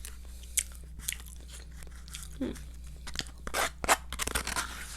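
Crunchy Popeyes fried chicken being bitten into and chewed: a couple of sharp crunches, then a quick run of crunching in the last two seconds.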